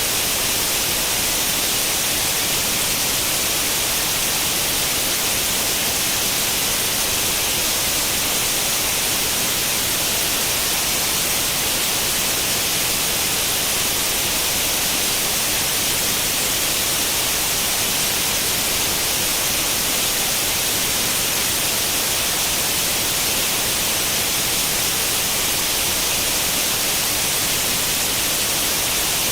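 Steady white-noise hiss like the static of an old tube television with no channel tuned in, brighter in the upper range and unchanging throughout.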